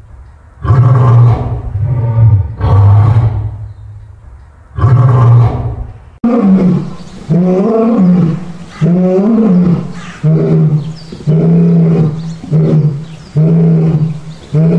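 Lions roaring: a bout of deep, drawn-out roars, then a second recording in which three long roars rise and fall in pitch and trail off into a series of short grunts about one a second, the typical ending of a lion's roaring bout.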